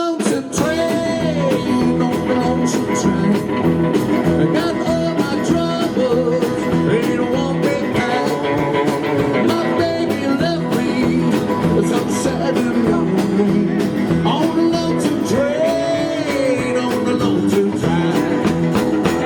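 Rockabilly band playing live, with guitar, a steady drum beat and singing.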